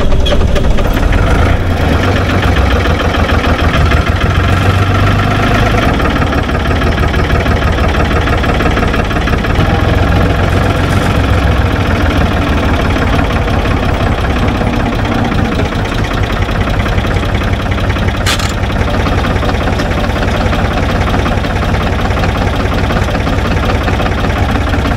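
Ford farm tractor's engine running steadily at close range, as the tractor drops its link box and sets up to reverse. There is a brief sharp click about three-quarters of the way through.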